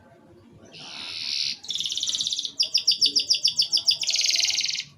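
Domestic canary singing: a fast rolling trill starting under a second in, a second trill, then a run of about nine sharp repeated notes a second, ending in another rolling trill.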